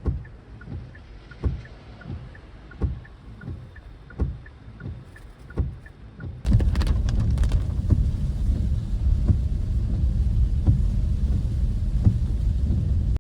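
Soft, evenly spaced thumps about every 0.7 seconds, then from about six seconds in a loud, steady low rumble of wind buffeting the microphone in heavy rain.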